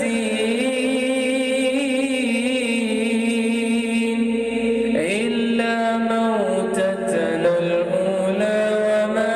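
A man reciting the Quran in a drawn-out, melodic tajweed style, holding long notes with a wavering, ornamented pitch. He glides up into a new phrase about five seconds in.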